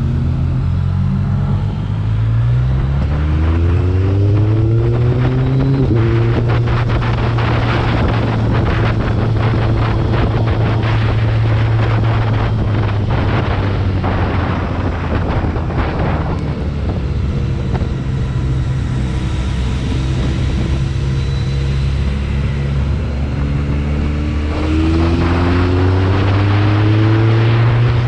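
BMW K1300R motorcycle's inline-four engine under way, its pitch rising as it accelerates a couple of seconds in and again near the end, holding steady in between with a drop around the middle as the throttle eases. Wind rushes over the microphone throughout.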